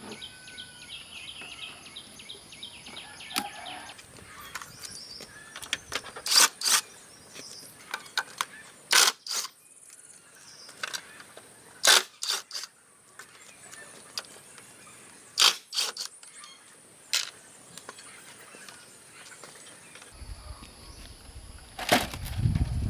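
A handful of sharp clicks and knocks, a few seconds apart, typical of hand work with tools and hard parts, over a steady high-pitched insect drone. A low rumble comes in near the end.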